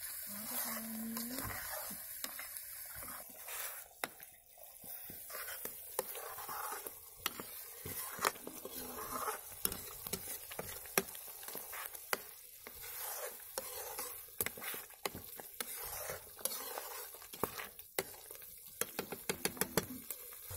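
Tomato paste frying in a metal kadai: a steady sizzle, with a metal ladle scraping and clinking against the pan as it is stirred, and a quick run of clinks near the end.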